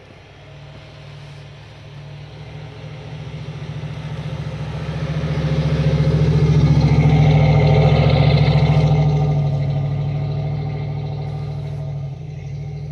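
4x4 off-road vehicle engine running as the vehicle comes close. It grows steadily louder, is loudest about seven to eight seconds in, then fades somewhat.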